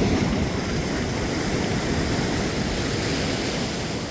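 Steady rushing of surf on a beach, mixed with wind buffeting the microphone.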